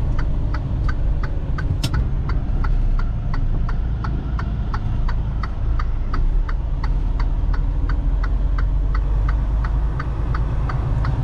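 Semi truck cab: the diesel engine running low underneath a turn-signal flasher clicking steadily, about three clicks a second, with one sharper click about two seconds in.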